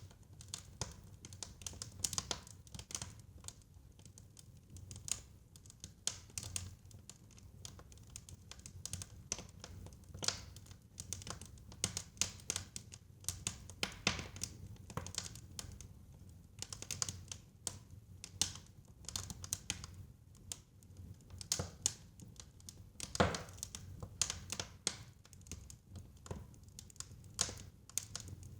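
Fire in a fireplace crackling: irregular sharp pops and snaps, a few a second, with one louder pop about three quarters of the way through, over a low steady rumble.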